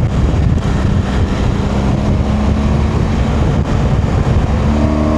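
BMW R1200GS boxer-twin engine running on the move, with wind rush on the microphone; near the end the engine note rises steadily as the bike accelerates.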